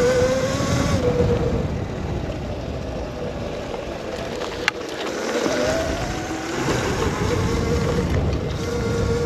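Razor MX650 electric dirt bike's motor whining under way, its pitch dropping as the rider eases off around the middle and rising again as he speeds up, over heavy wind buffeting on the mic. A single sharp click a little before halfway.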